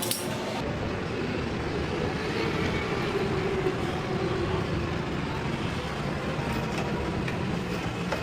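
Steady running of a motor vehicle, with a short metallic clink right at the start.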